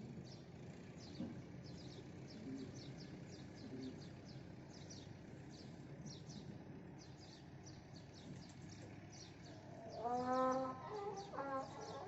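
Small birds chirping rapidly and continuously, many short high chirps a second. About ten seconds in, a chicken starts clucking loudly in a string of short calls.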